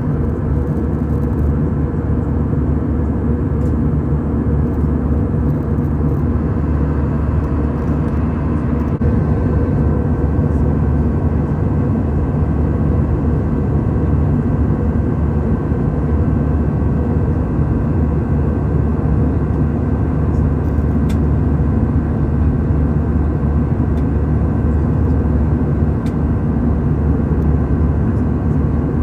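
Steady drone of a jet airliner heard from inside the passenger cabin: engine and air noise, a deep rumble with a few faint steady hum tones over it.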